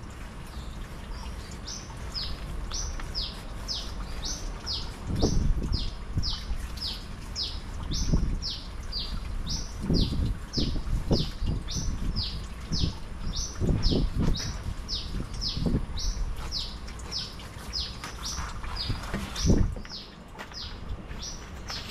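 A small bird repeating short, high, down-slurred chirps, about two a second, without a break. Under it, low rustles and soft thumps come and go as a large, oil-softened crinum leaf is handled and its midrib is pulled out.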